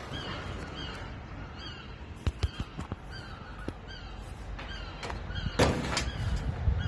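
Gulls giving repeated short alarm calls, about two a second, at a perched Harris hawk. A few sharp knocks come about two seconds in, and a brief loud rush of noise near the end.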